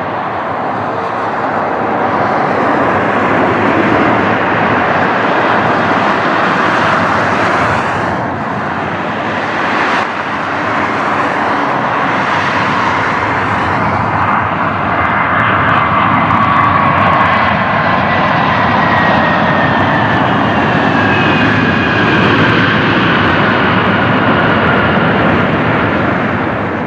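Airbus A319-132 jet airliner's IAE V2500 turbofan engines running loud and steady as it passes, with a whine that slowly falls in pitch over the second half.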